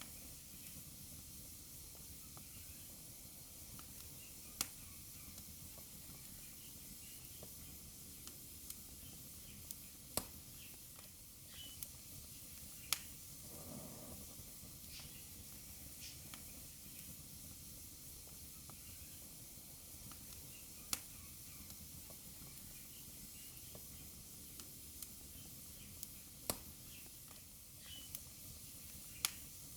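Wood fire burning in a fireplace: a steady soft hiss with scattered crackles and about six sharp pops spread through.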